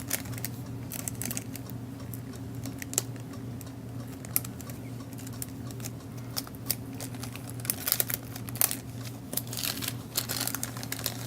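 Small cellophane bags crinkling as they are handled, with scattered sharp crackles and clicks that grow busier near the end, over a steady low hum.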